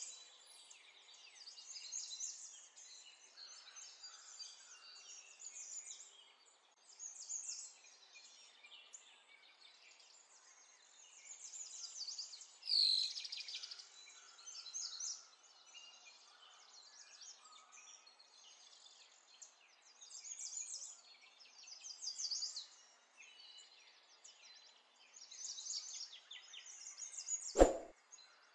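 Birds chirping and singing in the background, with many short calls and one louder call about 13 seconds in. A single sharp click sounds near the end.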